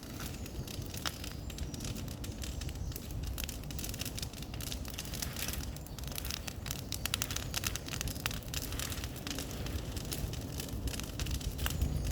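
Bonfire of cleared brush crackling and popping, with irregular sharp snaps over a low steady rumble.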